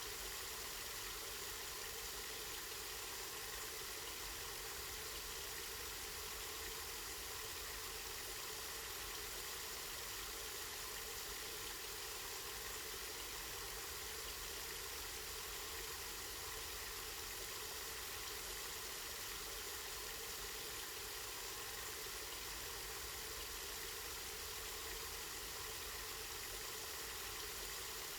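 Water from a spring running steadily, a constant even rush with a low rumble underneath.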